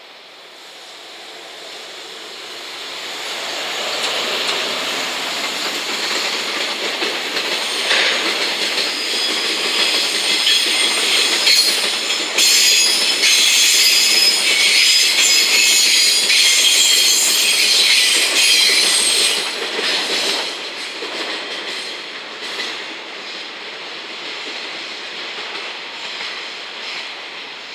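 A freight train passing: the EF210 electric locomotive with nine Chiki flat wagons loaded with long rails. The wheels clatter over the rail joints and squeal. The sound swells as the train approaches, is loudest while the wagons go by, then fades as it draws away.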